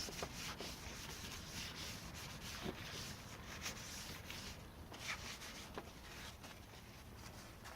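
Cloth or paper towel wiping spilled oil off the engine: a faint, uneven rubbing with a few light clicks.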